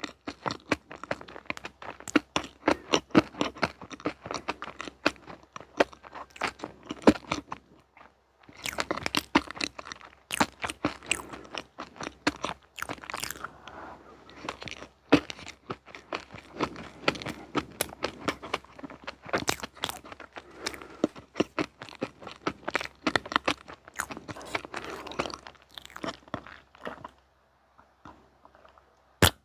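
Close-miked chewing of crunchy sweets and desserts: many sharp, irregular crunches with bites and mouth sounds, pausing briefly about eight seconds in and ending on one loud crunch.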